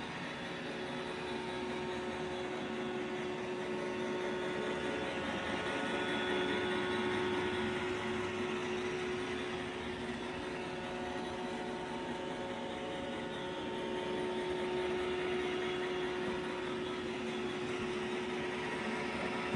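iRobot Roomba i7 robot vacuum running in spot-clean mode: a steady motor whine and brush-roll hum that swells and eases a little in loudness twice.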